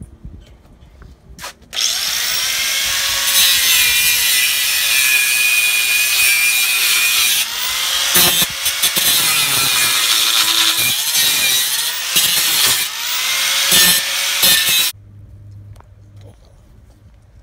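Electric angle grinder cutting through metal, starting about two seconds in and stopping sharply near the end. Its motor pitch dips and recovers as the disc bites, with a few short breaks in the cut.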